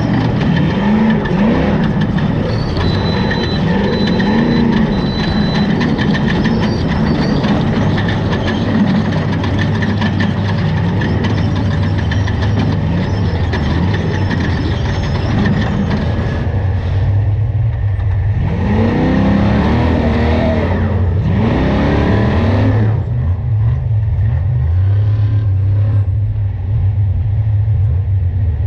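Trophy Truck Spec race truck's V8 engine running hard at speed. About two-thirds of the way in, it swells twice with rising and falling pitch, then settles into a steadier low drone.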